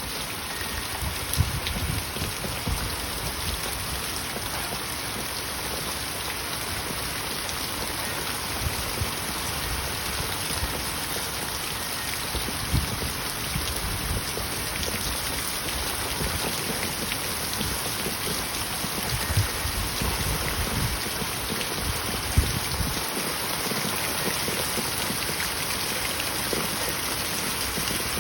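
Steady heavy rain falling on surfaces, a constant hiss with a few sharp, louder drop impacts scattered through it.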